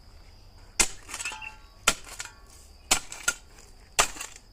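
Four sharp strikes about a second apart, each followed by a brief ringing, over a steady high insect trill.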